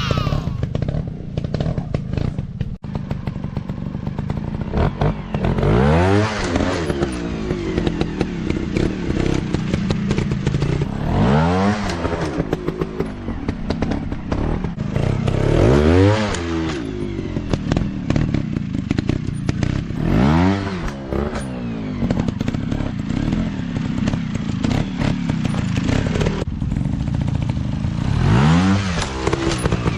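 Off-road dirt bike engines running, revving up and dropping back every few seconds as the throttle is worked, with clattering and scraping from the riding.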